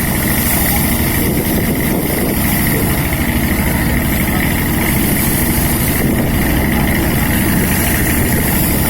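Fishing boat's engine running steadily, with a fast, even throb in the low end.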